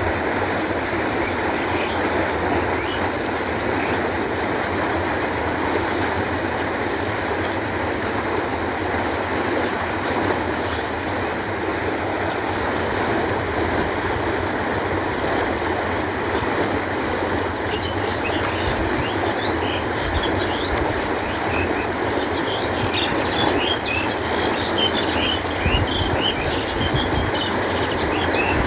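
Canal water flowing in a steady, continuous rush. From a little past halfway, small birds chirp over it in quick, high calls.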